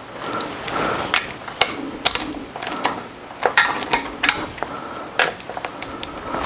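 Irregular metallic clicks and clinks of hand tools and fasteners as connecting-rod cap bolts are drawn down by hand on a small-block Ford, with a short scraping rustle about a second in.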